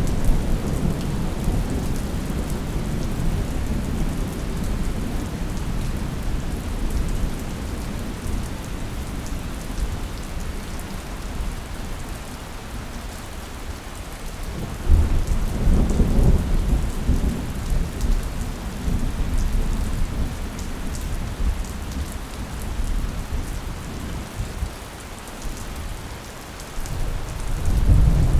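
Steady rain on a surface with thunder rolling in low rumbles: one at the start, one about halfway through that swells suddenly and fades over a few seconds, and another building near the end.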